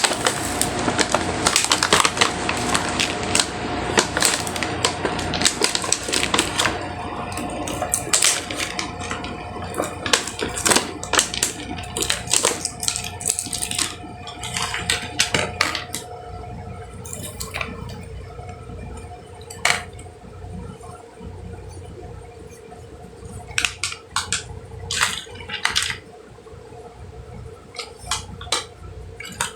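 Makeup cosmetic set being unboxed and handled: dense crinkling and clicking for the first several seconds, then sparser clicks and taps of the cases and packaging.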